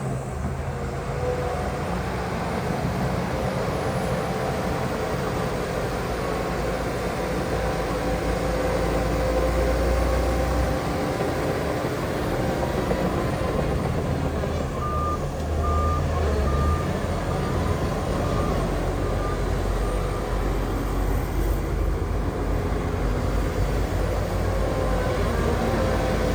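Diesel engines of heavy earthmoving machinery running steadily, with a reversing alarm beeping at an even pace for a few seconds midway.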